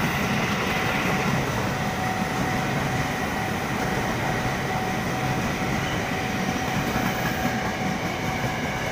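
JR 205 series electric commuter train passing close by at speed: a steady rumble of wheels on the rails, with thin steady tones over it.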